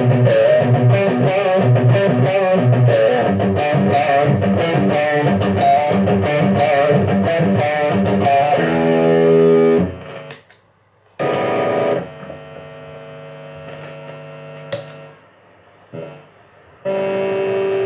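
Electric guitar through a Marshall AVT50 amp with a distortion effect: a fast picked riff on the low strings for most of the first half. Then held chords and single notes ring out with short gaps between them, and a new chord is struck near the end.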